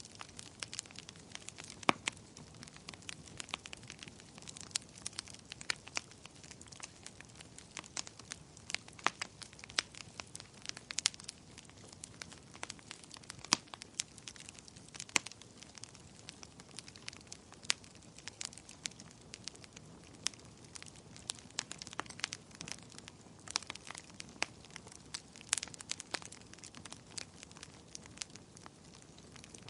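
Fireplace fire crackling: irregular sharp pops and snaps, several a second, over a soft steady hiss.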